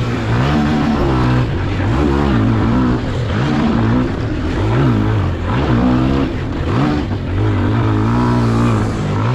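Pit bike engine revving up and down again and again as it is ridden hard round a dirt track, heard close from on board, the pitch climbing and dropping about once a second.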